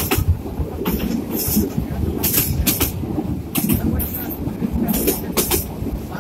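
Moving passenger train heard from a carriage window: a steady low rumble of the wheels on the track, with recurring sharp clicks, often in pairs, as the wheels cross rail joints.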